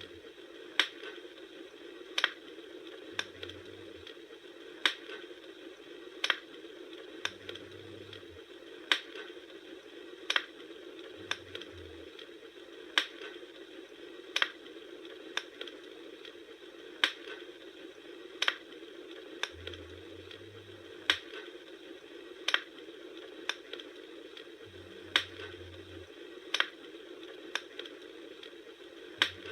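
Campfire crackling: a steady hiss of burning with sharp pops at a very even pace, a little more often than once every one and a half seconds, and smaller snaps between them.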